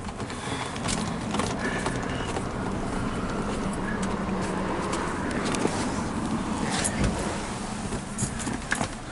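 A car engine running steadily, with a few light clicks and knocks over it.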